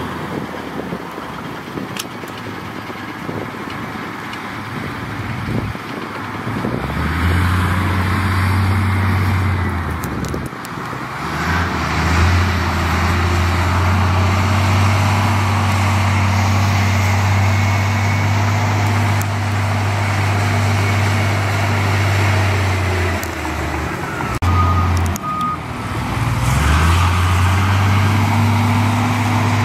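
Heavy machine's diesel engine working under load, a steady low drone that comes up about a quarter of the way in, eases off briefly twice and picks up again. Two short high beeps sound late on.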